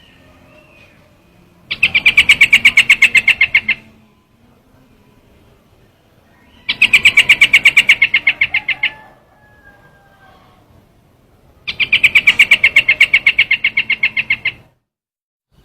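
Recorded lure call of a trao trảo bird. Three bursts of rapid, evenly repeated chattering notes, about ten a second and each burst about two seconds long, come about five seconds apart.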